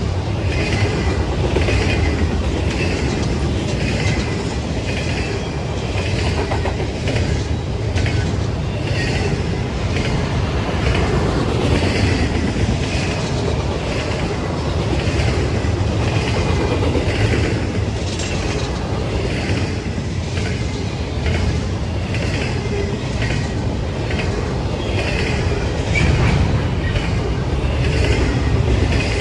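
Railroad cars rolling past, their wheels clacking over the rail joints in a steady repeating rhythm over a continuous rumble.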